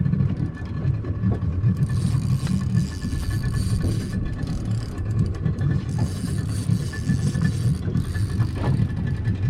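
Steady low rumble of a boat's engine running, with a faint steady whine above it.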